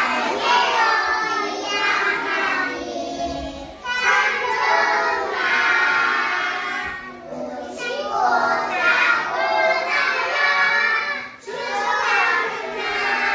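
Young children singing a Korean children's song, in phrases of a few seconds with short breaks between them.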